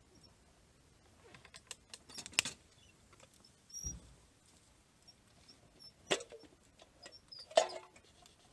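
A few scattered clicks and knocks of small objects being handled, with a dull thump about midway and two sharper knocks near the end.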